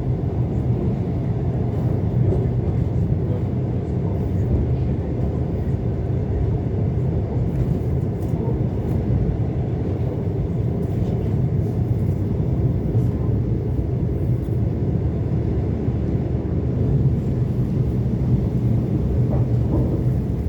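ET2 electric multiple unit running along the track, heard from inside the train: a steady low rumble.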